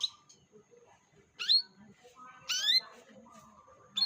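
Canary calling: loud short chirps that sweep sharply upward, three of them about a second apart, with softer twittering between.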